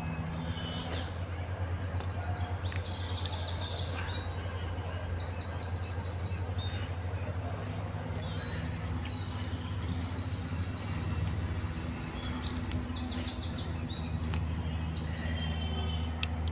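Birds calling over and over in short, high, rapid trills, above a steady low hum. Faint crackle of dough balls frying in hot oil in an iron wok.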